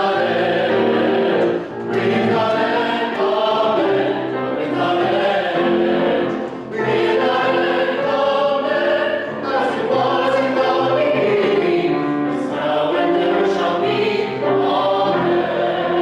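A choir singing a sacred piece in sustained phrases, with brief pauses for breath about two seconds in and again near seven seconds.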